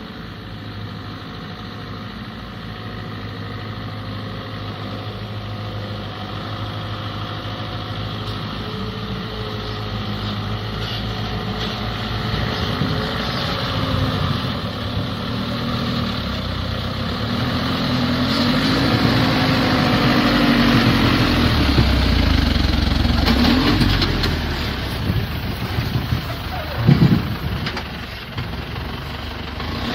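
A heavy truck's engine running under load and revving, its pitch rising and falling as it gets gradually louder. A single loud bang comes near the end.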